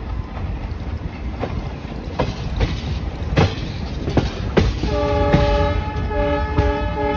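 Passenger train rolling slowly through a station yard, its wheels clicking irregularly over rail joints and points. About five seconds in, a diesel locomotive horn sounds a chord in a few blasts, the first the longest.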